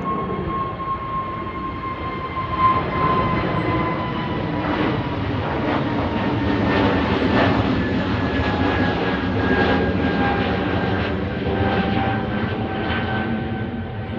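Jet airliner engines at takeoff power, a steady roar with a whine that slowly falls in pitch as the aircraft passes.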